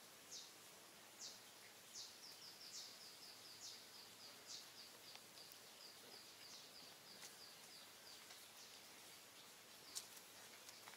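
Faint bird calls: short, high chirps that sweep downward, at first spaced out, then a quicker run of notes at about three a second, with one sharp click about ten seconds in.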